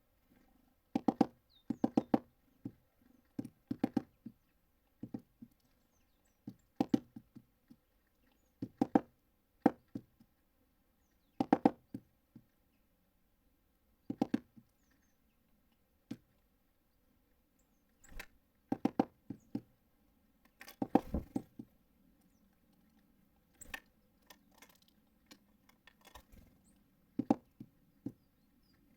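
Repeated clusters of quick, sharp knocks on the feeder as small birds hammer at seeds with their beaks, a few taps at a time with short pauses between, and one heavier thump about 21 seconds in.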